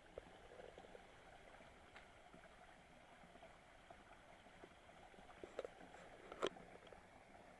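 Faint, steady rush of a small waterfall on a rocky mountain river, with a few light clicks and one sharp knock about six and a half seconds in.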